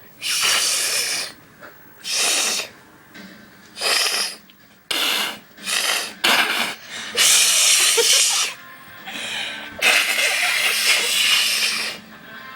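A person hissing in a series of breathy bursts, about eight of them, some short and some nearly two seconds long.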